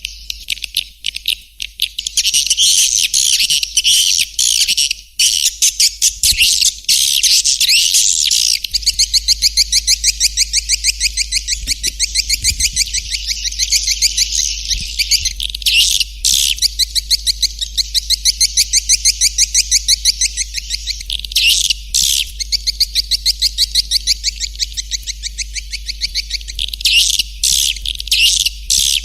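Swiftlet calls played as a swiftlet-house lure: dense, rapid twittering chirps, at times settling into long, fast, even runs of repeated chirps, over a faint steady low hum.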